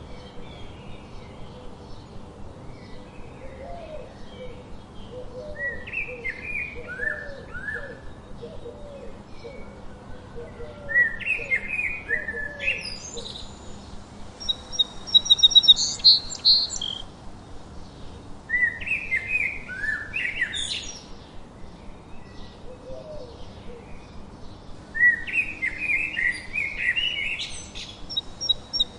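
Several songbirds singing. Slurred, falling phrases come every few seconds, and the loudest is a rapid trill about halfway through. In the first half a softer, lower run of repeated notes sounds under them.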